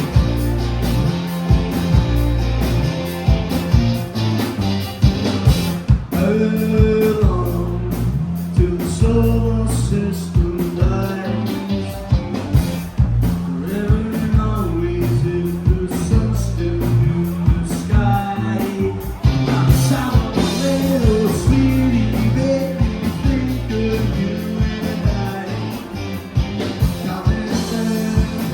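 A rock band playing live, with drums, bass and guitar; a singer comes in about six seconds in and sings over the band.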